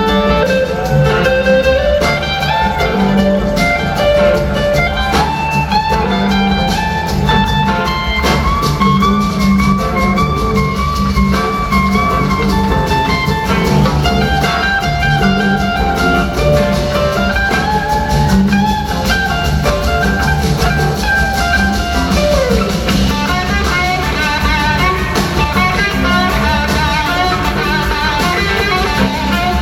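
Live blues-rock band: electric guitar playing lead lines with sliding notes over bass and drums.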